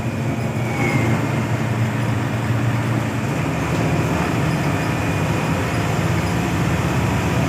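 Steady drone of a Hino AK8 bus's front-mounted diesel engine and road noise while the bus is driving, with a brief faint squeak about a second in.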